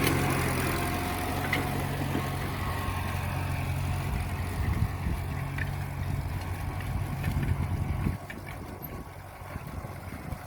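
Tractor engine idling steadily with a low, even note, stopping abruptly about eight seconds in.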